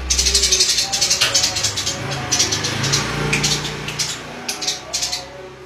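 Songbird of unidentified species chattering in fast runs of sharp, clicking notes over a steady low hum.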